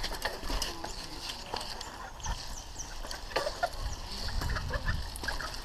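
Mountain bike rattling and knocking over a rough dirt trail, with wind rumbling on the microphone and a few short high chirps partway through.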